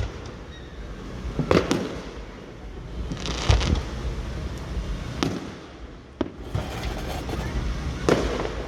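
Aerial fireworks going off: about five sharp bangs a second or two apart, one of them a little after three seconds in trailing off longer.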